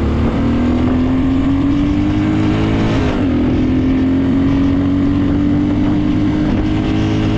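Motorcycle engine running on a home-built CDI ignition, showing that the new unit gives spark. It idles steadily, its pitch creeping slowly higher with a brief dip about three seconds in.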